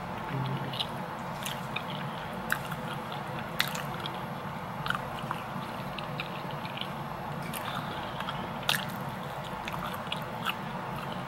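A person eating close to the microphone: chewing, with scattered short mouth clicks and smacks about every second or two over steady room noise.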